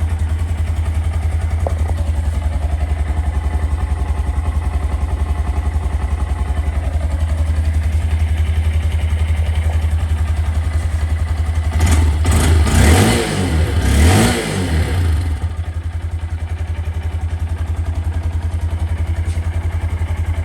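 Honda Grom's 125 cc single-cylinder engine through its stock exhaust, running at a steady cold-start high idle. A few quick throttle blips rise and fall in pitch a little past halfway, then it settles back to the idle.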